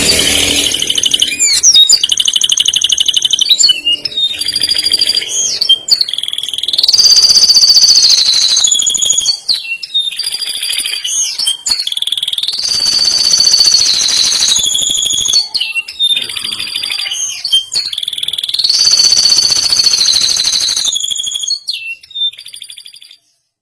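Canary singing a long, loud song of fast trills and held high whistled notes, with a few sharp clicks between phrases. It breaks off abruptly just before the end.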